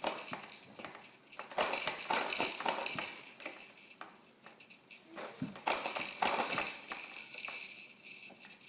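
Fisher-Price Rainforest Jumperoo clattering and rattling as a baby bounces in it: plastic toys and frame knocking together. The rattling comes in two bursts of about a second and a half, with scattered clicks between them.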